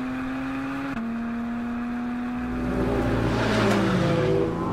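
Porsche 718 Cayman GT4 RS's naturally aspirated 4.0-litre flat-six running at high revs on track. The pitch steps down with a gearshift about a second in. About three seconds in it grows louder as the pitch falls, then rises again near the end.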